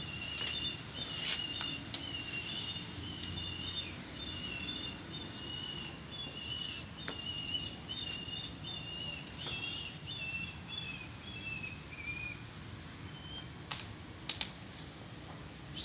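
Small bird chirping a long run of short, high notes that stops about three quarters of the way through. A few sharp clicks near the end.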